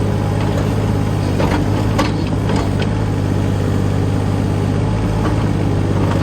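Small Kubota tractor's engine running steadily, with a few sharp knocks about two seconds in.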